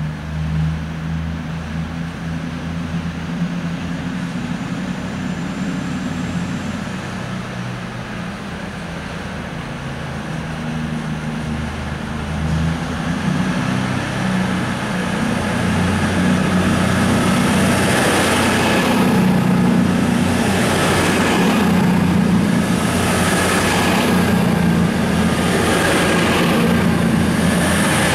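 Virgin Trains Voyager diesel multiple unit approaching and passing through the station, its underfloor diesel engines running. The sound grows louder from about halfway, then each car goes by close with a rush about every second and a half.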